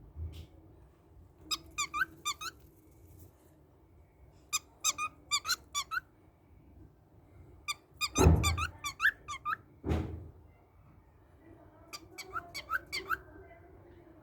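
Small birds chirping in short bursts of quick, sharp, rising notes, a burst every few seconds. Two dull thumps come about eight and ten seconds in.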